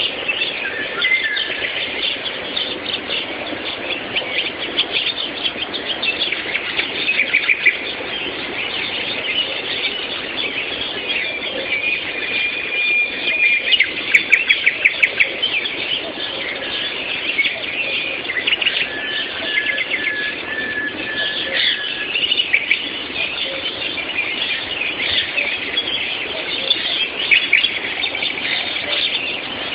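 Morning chorus of many songbirds singing at once, overlapping chirps and trills, with a loud burst of rapidly repeated notes about halfway through. Recorded on a mobile phone, so the sound is thin, with no high treble.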